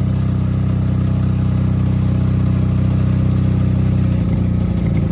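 Old Honda motorcycle engine running steadily as the power unit of a homemade ski rope tow; its note wavers briefly about four seconds in.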